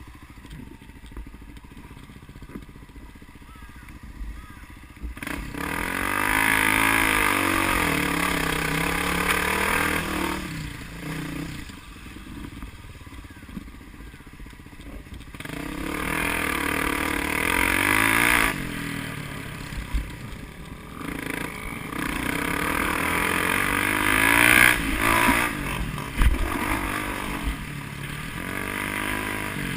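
Vehicle engines revving hard, the pitch climbing and falling as they run through the gears. The sound comes in three loud spells, about five seconds in, about sixteen seconds in, and again from about twenty-two seconds, with quieter stretches between.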